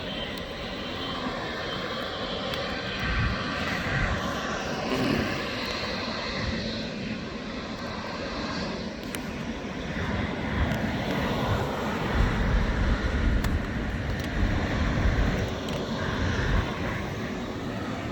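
Jet airliner's engines running as it passes, a continuous rushing noise, with wind gusting hard on the microphone, heaviest in the second half.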